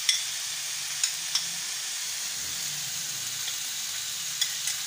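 Diced potatoes and onions sizzling steadily in oil in a frying pan, with a few sharp clicks.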